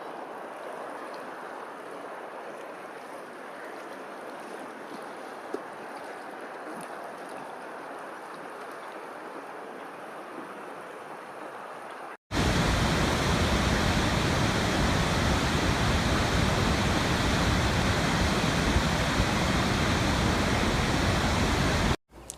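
Steady rush of running water. About halfway there is a sudden cut to a much louder, deeper roar of falling water, which stops abruptly just before the end.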